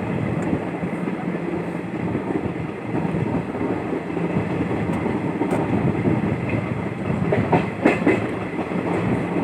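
Passenger train running along the track: a steady rumble with the clatter of wheels over rail joints, and a quick cluster of louder clacks near the end.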